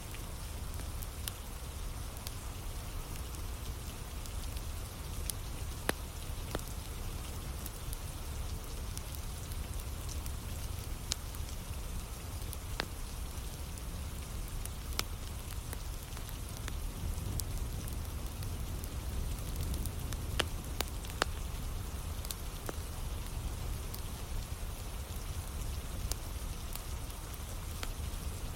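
Steady rain with a low rumble, and the scattered sharp pops and crackles of a wood fire burning.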